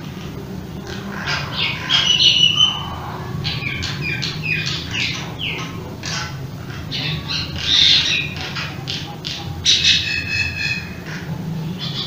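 Birds chirping and squawking over and over: many short high chirps, several sweeping downward, with louder harsh calls about two seconds in, around eight seconds, and near ten seconds.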